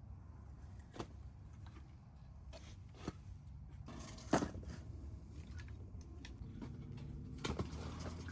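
Scattered light clicks and knocks of small objects being handled, the loudest about four seconds in and a quick cluster near the end, over a low steady rumble.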